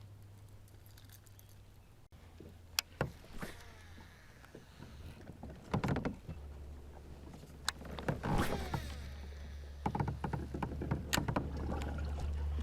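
Scattered knocks, clicks and rattles of fishing gear being handled aboard a kayak, over a steady low wind rumble on the microphone.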